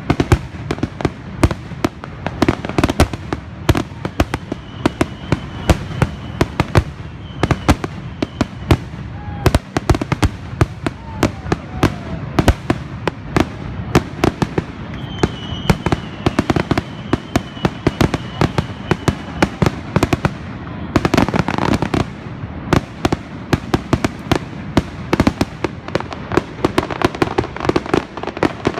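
Fireworks going off in a rapid, unbroken run of sharp bangs and cracks, several a second, thickening into a denser volley about three quarters of the way through. A faint high whistle rises above them twice.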